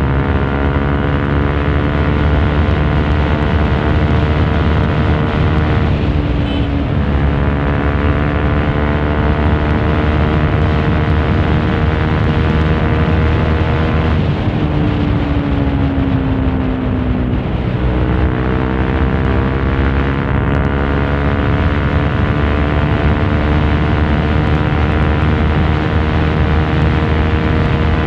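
Honda CRF150L's single-cylinder four-stroke engine through a Norifumi Torc aftermarket exhaust, ridden on the road and heard from inside the rider's helmet. The engine pulls up slowly, breaks off for a gear change about six seconds in, winds down as the throttle is eased off in the middle, then pulls up again and holds a steady speed.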